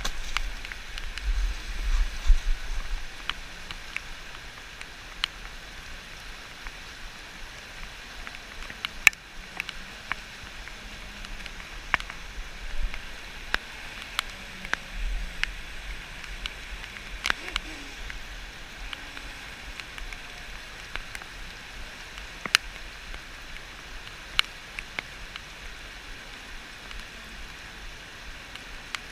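Steady rush of river water, with scattered sharp clicks. Wind buffets the microphone at the start and again about halfway through.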